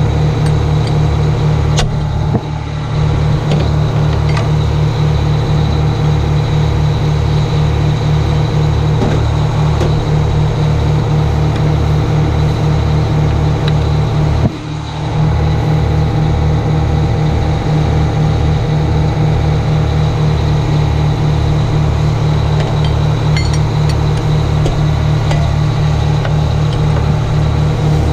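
Detroit Diesel two-stroke engine of a 1980 Howe fire truck running steadily with an even low throb, dipping briefly twice.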